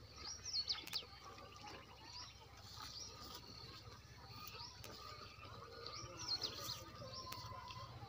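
Small birds chirping and twittering in short quick calls, with louder bursts of chirps just under a second in and again about six and a half seconds in.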